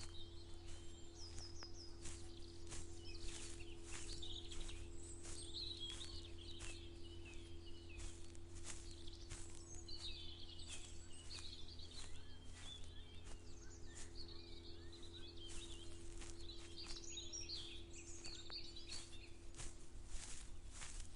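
Small birds singing and chirping in many short phrases over regular footsteps, about two a second, from someone walking. A faint steady hum and a low rumble lie underneath.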